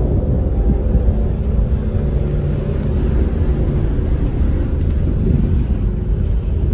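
A car ferry's engines running steadily while the ship manoeuvres to dock: a loud, deep hum with several steady low tones.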